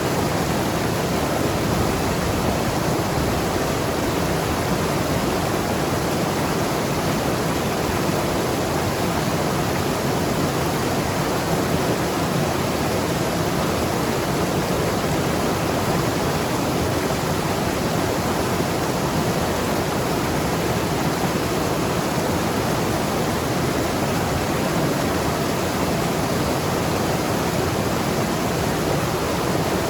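Mountain river rushing over rocks, a steady unbroken rush of water.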